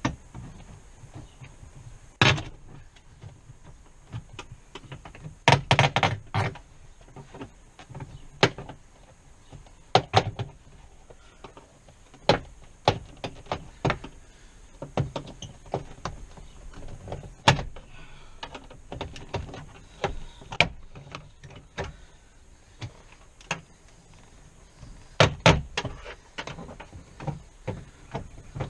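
Scattered clicks, knocks and rattles of hand work on a GMC Suburban's door as it is taken apart, with a quick flurry of knocks about six seconds in and another near the end.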